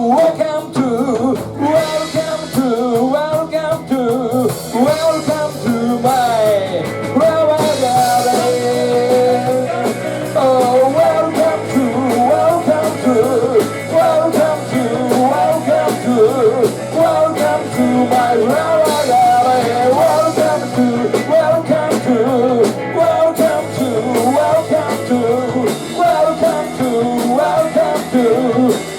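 Live rock band playing, with singing over guitar, bass and drums.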